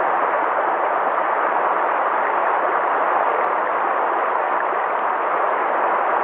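River water flowing, a steady even rushing with no change in level.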